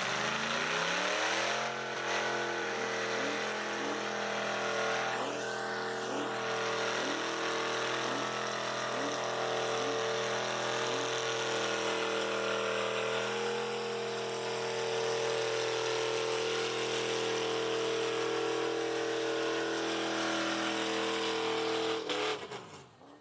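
A car engine revs up over the first second or two and is held at a steady high rpm for about twenty seconds, with a loud hiss over it, then drops off sharply near the end.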